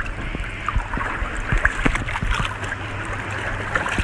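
Water sloshing and trickling against a small boat's hull, with small splashes and drips over a low steady hum.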